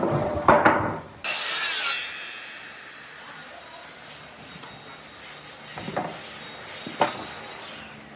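Wood being worked by hand and with tools: a few knocks, a sudden loud stretch of scraping or rubbing on wood that fades away, then two sharp knocks near the end.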